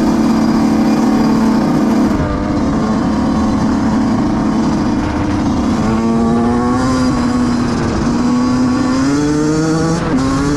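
2005 Yamaha YZ125 two-stroke dirt bike engine running continuously, its pitch easing down about halfway through and rising again near the end.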